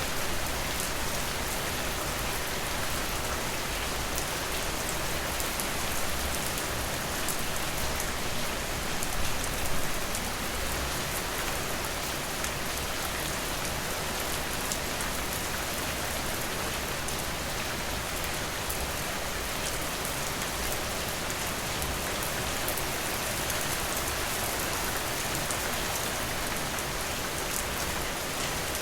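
Steady rain falling, a dense, even patter of drops, briefly a little louder about nine seconds in.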